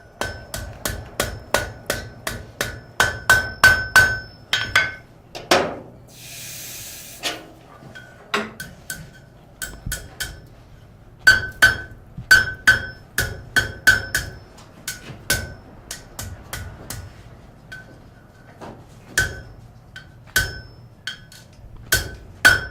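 Blacksmith's hammer striking metal on an anvil in quick runs of blows, about three a second, each blow ringing. There is a short hiss about six seconds in.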